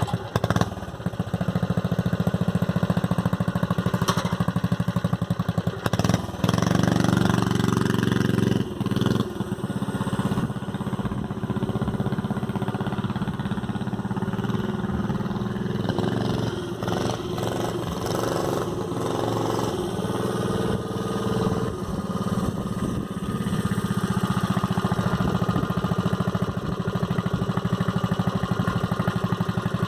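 Tecumseh HS40 single-cylinder four-stroke engine on a Thunderbird minibike catching right at the start and then running under way, its speed rising and falling as it is ridden.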